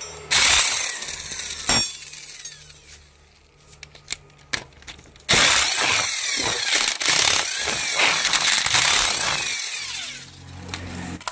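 Workshop power tool run in two bursts, a short one near the start and a longer one of about five seconds in the middle, with a rattling, clicking texture.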